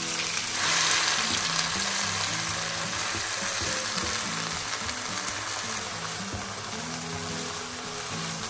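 Diced red and green bell peppers sizzling as they fry in hot olive oil in a non-stick pan, stirred with a wooden spatula. The sizzle is loudest about a second in, then settles to a steady hiss.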